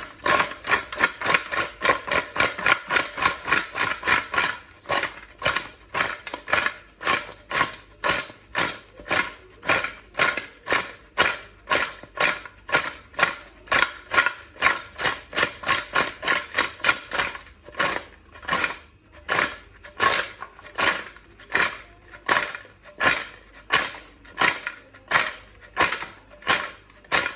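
Fried potato wedges and fries being tossed with salt and spices in a large bowl: a steady run of sharp clacks, about three a second.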